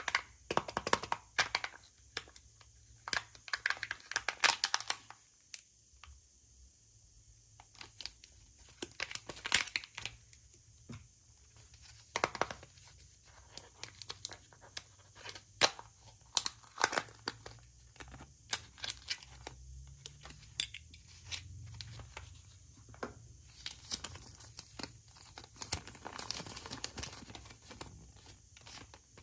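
Wrapping from a surprise egg being torn and crinkled by hand: irregular crackles and rips with sharp clicks throughout.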